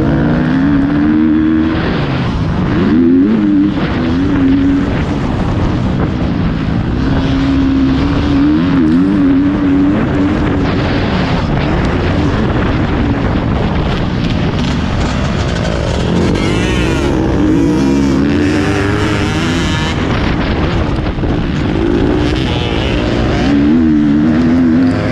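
Motocross bike engine heard on board through a GoPro, revving hard, its pitch climbing and dropping again and again as the rider accelerates and backs off around the track, over a constant rush of wind and noise.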